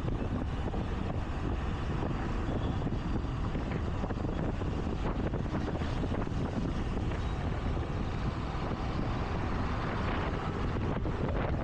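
Steady rush of wind on the microphone of a riding motor scooter, with its engine and road and traffic noise underneath, holding even throughout.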